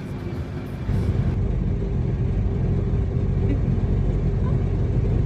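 Motorboat engine running steadily under way, a low rumble that grows louder about a second in.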